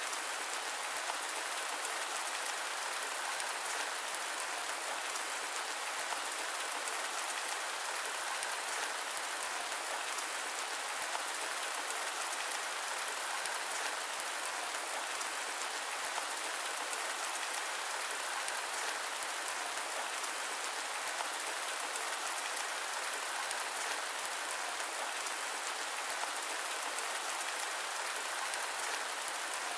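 Steady rain: an even hiss of falling rain with a fine patter of drops, without change or sudden sounds.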